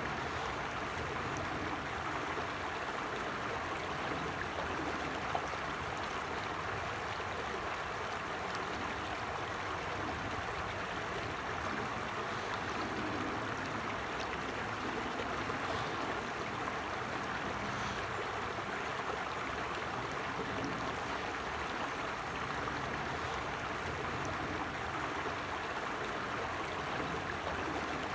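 Creek water running steadily, an even, unbroken sound of flowing water.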